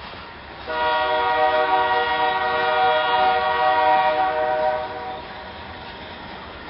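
Freight locomotive's air horn sounding one long blast of about four seconds, several steady notes at once, over the running noise of the passing train.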